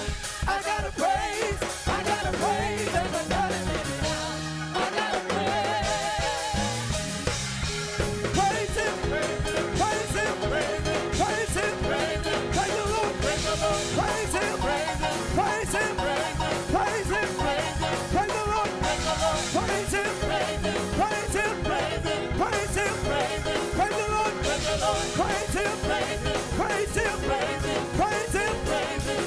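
Live gospel praise music: a band playing an up-tempo song with a fast, steady drum-kit beat and singing, thinning out briefly about five seconds in before the full beat returns.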